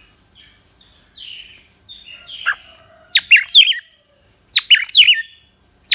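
Cockatiel calling: soft chirps at first, then two loud bursts of shrill, sweeping whistled calls, about three seconds in and again about a second and a half later.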